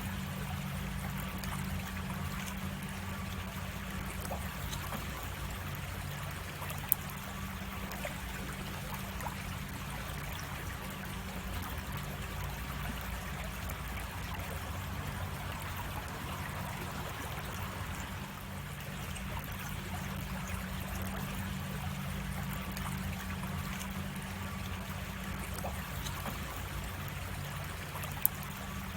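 Creek water flowing and trickling over rocks, a steady even rush. Two brief sharp clicks stand out, one about seven seconds in and one near the end.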